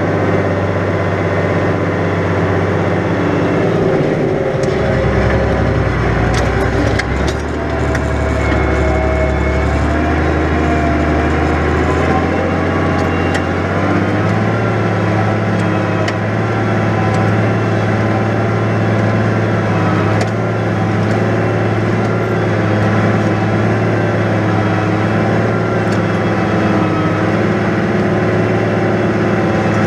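New Holland 100-90 tractor's six-cylinder diesel engine running steadily while ploughing. Its note sags lower for several seconds from about four seconds in, as the engine is pulled down by the plough in the heavy wet ground, then recovers to a higher, steady pitch about a dozen seconds in. There are a few light clicks along the way.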